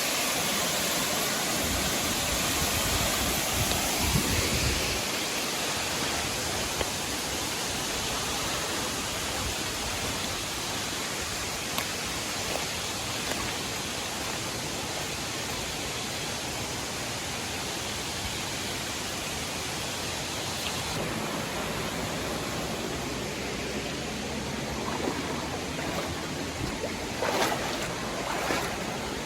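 Steady rushing of a waterfall and creek, an even hiss of falling and running water.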